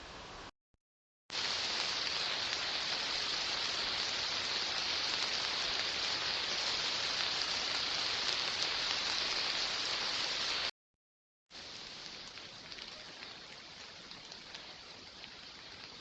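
Steady hiss like rain, recorded on trail cameras, in three short clips cut together with a moment of dead silence between each; the middle clip is much louder than the other two.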